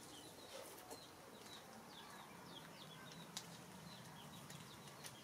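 Near silence, with birds chirping faintly in the background: quick, high, short falling chirps repeating throughout, and a single faint click a little past the middle.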